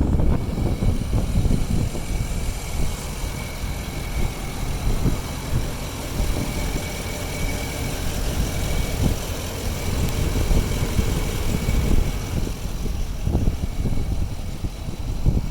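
Chevrolet 3500 pickup truck's engine idling steadily, with a faint thin high whine over the low rumble.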